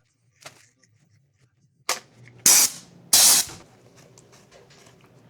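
Two short, loud hissing spray bursts about half a second apart, just after a sharp click, during headlight reassembly.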